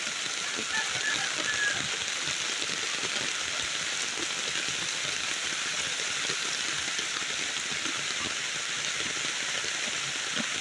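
Steady hiss of rain falling on a flooded river, with many small drop impacts close by, mixed with the rush of the high water.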